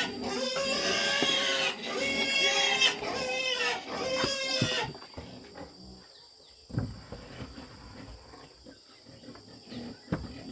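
A pig squealing loudly, about four high-pitched calls of roughly a second each, which stop about five seconds in. Quieter shuffling noises and a few short knocks follow.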